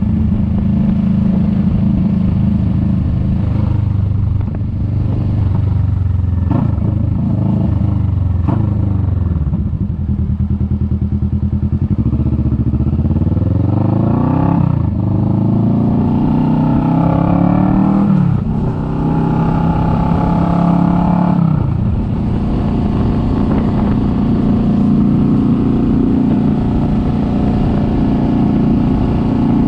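Kawasaki Vulcan S 650 parallel-twin engine under way: it runs steadily, then accelerates through the gears, its pitch rising three times and dropping sharply at each upshift, before settling into a steady cruise for the last several seconds.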